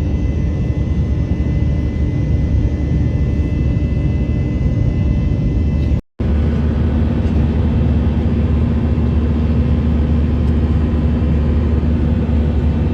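Steady low rumble of an airliner cabin in flight, with a faint steady whine on top. It drops out for a split second about six seconds in, then carries on unchanged.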